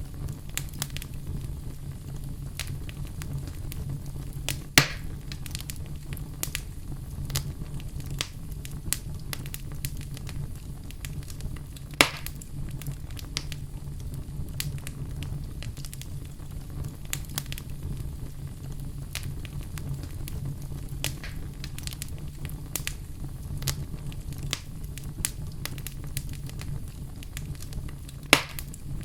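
Wood fire burning in a fireplace: a steady low rumble of flames with frequent small crackles, and three loud sharp pops about five seconds in, about twelve seconds in, and near the end.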